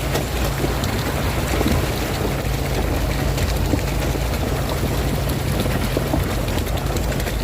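A Jeep's engine running slowly with a steady low hum, under a constant patter of rain and water hitting the vehicle, with many small scattered ticks of drops.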